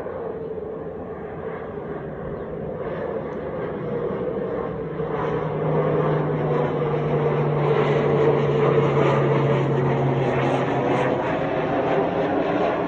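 Propeller airplane's engine droning, growing louder over the first half and then holding steady as the aircraft comes close.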